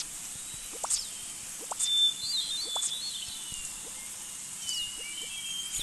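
High chirping calls: sharp rising chirps about once a second and warbling whistles, over a steady background hiss.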